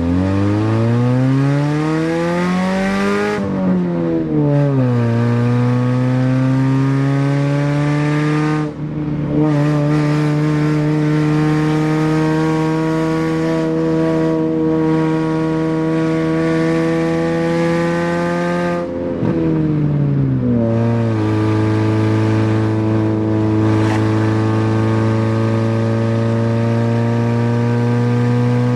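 Saturn 1.9-litre twin-cam four-cylinder running loud through only its exhaust manifold, with no pipes fitted. It revs up for about three seconds, falls in pitch as if at a gear change, then holds a fairly steady drone, with brief dips and drops in pitch twice more, about a third and two thirds of the way through.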